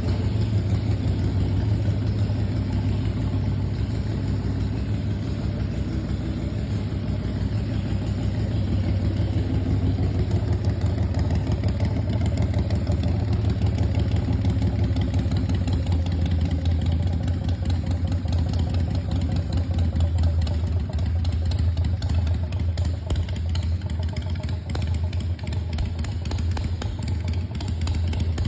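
2001 Harley-Davidson Softail's V-twin, fitted with a big cam and straight pipes, running steadily at idle.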